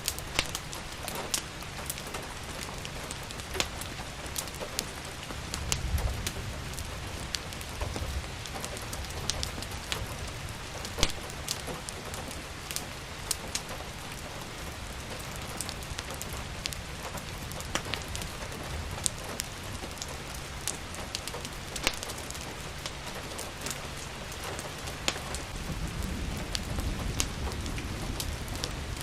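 Steady rain falling, with frequent sharp crackles and pops from a fireplace. A low rumble swells a few seconds in and again near the end.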